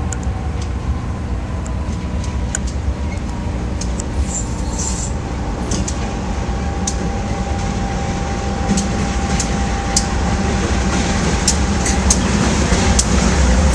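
Diesel freight locomotive approaching on the track, a steady deep rumble growing louder over the last few seconds as it draws near, with scattered sharp clicks from the wheels and rails.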